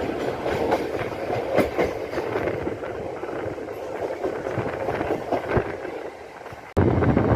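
MEMU local train running on the rails, a steady rumble with scattered clicking and clattering. Near the end it switches abruptly to a louder, deeper rumble with wind buffeting the microphone.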